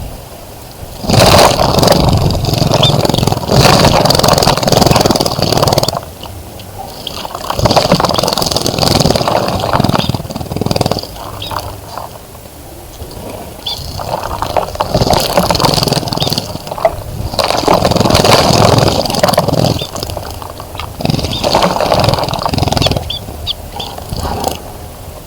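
A bird splashing and fluttering in a bird bath, in four bouts of a few seconds each with short pauses between, and brief bird chirps in the pauses.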